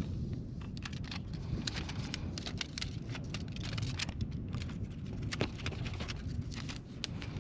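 Wind rumbling on the microphone, with scattered light clicks and crackles from handling or movement; no gunshots.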